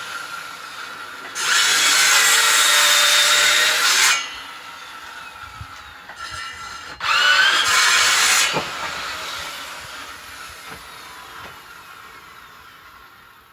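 Power saw cutting firewood in two loud bursts, the first about two and a half seconds long and the second shorter, with the motor whining steadily between cuts and fading away near the end.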